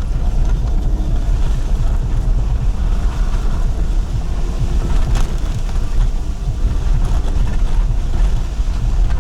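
Wind buffeting the microphone: a loud, uneven low rumble that flickers constantly without settling into a steady tone.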